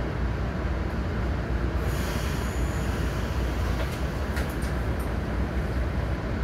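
MARC commuter train running at speed, heard from inside the passenger car: a steady rumble, with a hiss in the upper range from about two seconds in and a few short, sharp high clicks or squeaks about four to five seconds in.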